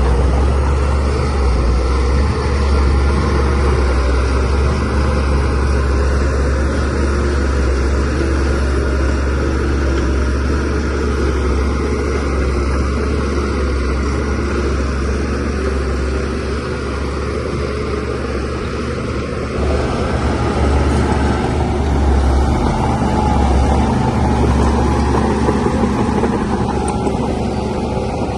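DH17C3PRO bulldozer's diesel engine running steadily under work, with a deep low hum and a change in engine note about twenty seconds in.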